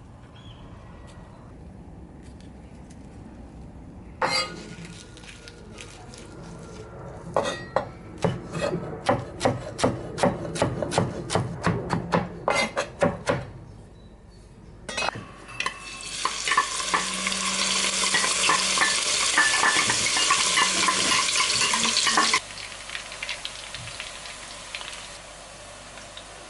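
A utensil knocks, then clinks rapidly against cookware for several seconds. Then food fries with a loud steady sizzle that stops abruptly.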